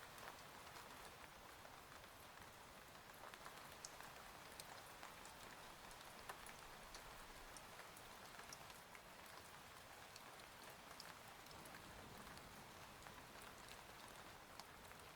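Faint, steady rain, with many scattered drop ticks through it.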